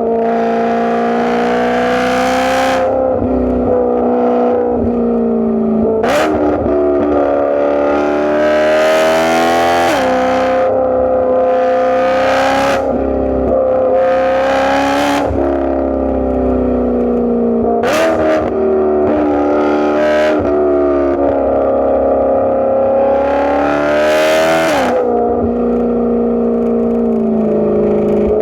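BMW E92 M3's 4.0-litre V8 on a catless, straight-piped exhaust with an x-pipe and valved muffler, pulling under load. The engine note climbs and drops again and again, with short, harsh bursts of exhaust noise at many of the drops.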